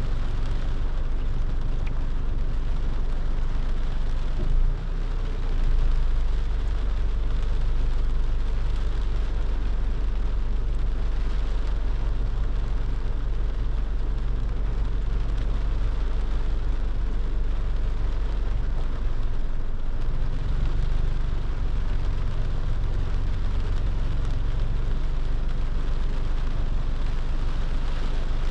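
Car driving in the rain: a steady low road rumble under an even hiss of rain and tyre spray, with a brief bump about five seconds in.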